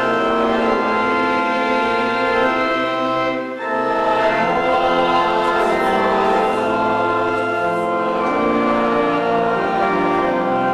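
A choir singing a hymn in long, held notes with instrumental accompaniment, with a brief break between phrases about three and a half seconds in.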